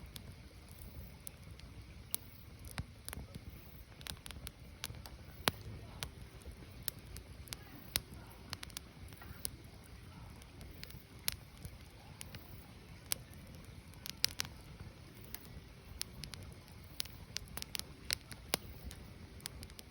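Firewood burning, with irregular sharp crackles and pops over a low steady rumble of the fire.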